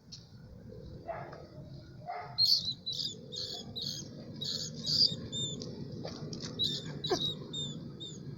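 A catita, a small mouse-like animal, giving a rapid run of shrill, high squeaks, about two or three a second, with a few short whistling glides mixed in. Two shorter, lower cries come in the first two seconds.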